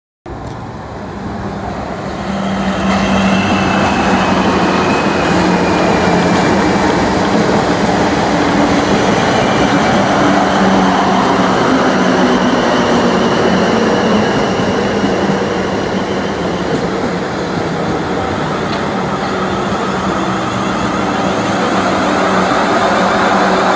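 A train running close by, the noise building over the first few seconds and then holding loud and steady, with a steady low hum and a high whine that slowly falls in pitch.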